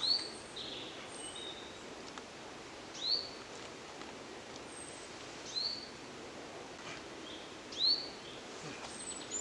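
A bird calling: a short, high, rising note repeated about every two to three seconds, with fainter, higher notes between, over a steady background hiss.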